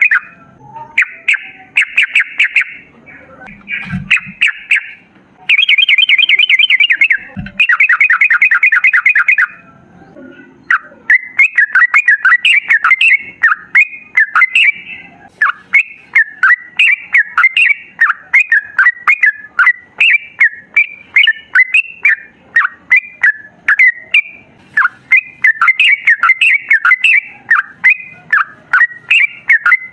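Yellow-vented bulbul (trucukan) singing. For the first third it gives several bursts of very fast repeated chattering notes, the long 'ropel' runs. From about ten seconds in it switches to a steady stream of short, varied bubbly phrases.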